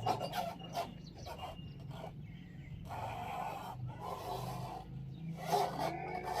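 An engine running steadily with a low hum, with irregular scraping and knocking sounds over it.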